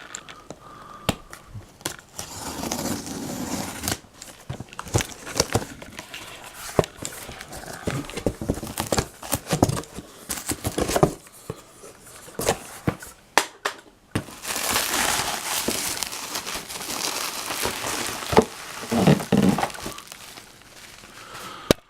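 Packing material crinkling and tearing as a delivery box is unpacked by hand, with many small clicks and knocks from handling. There is a longer, louder stretch of rustling about two thirds of the way in.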